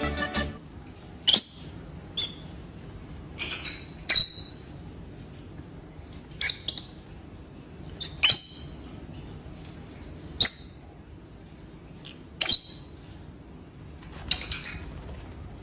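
Short, high-pitched bird chirps, about nine of them, each a quick call spaced a second or two apart. Background music stops within the first half second.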